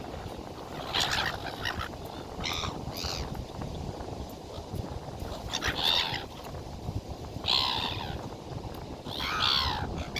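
Birds calling in short, harsh bouts, about five of them spaced a second or two apart, over a steady low background noise.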